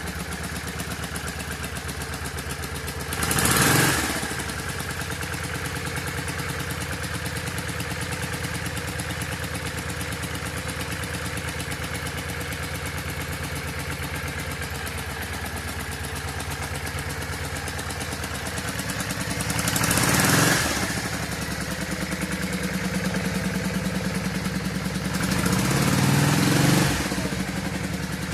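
The air-cooled V-twin of a 1992 Yamaha XV400 Virago idles steadily after a start. It rises briefly three times: about three seconds in, around twenty seconds in, and again near the end, as the throttle is blipped.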